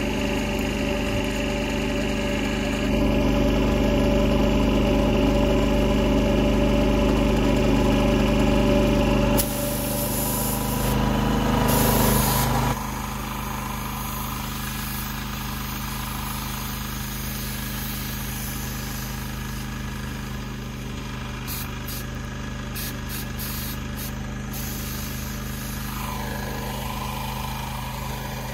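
Engine of a piece of farm machinery running at a steady speed. It is louder in the first half and drops abruptly in level about thirteen seconds in.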